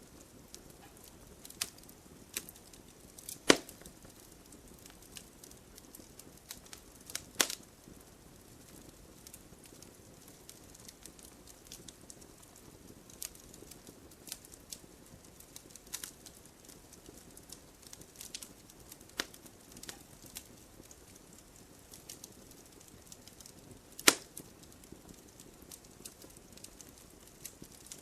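Wood fire in a fireplace crackling: irregular sharp pops and snaps over a faint steady hiss, with three louder snaps, about three and a half, seven and a half and twenty-four seconds in.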